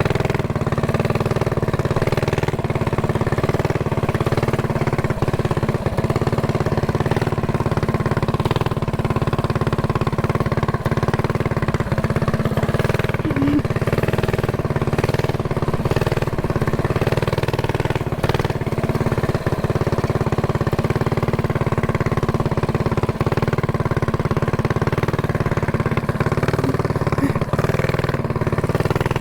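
Mini bike's small single-cylinder engine running at a steady speed, its pitch holding even without revving up or down.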